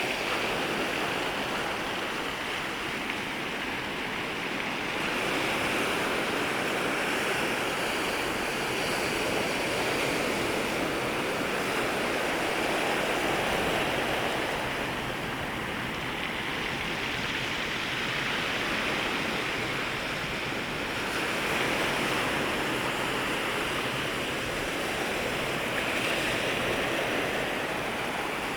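Ocean waves breaking and washing over the shoreline: a continuous surf hiss that swells and eases as each wave comes in, every several seconds.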